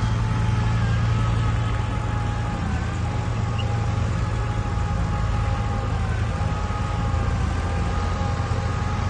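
Heavy diesel construction machinery running steadily: a deep engine hum with a high whine above it that wavers slightly in pitch.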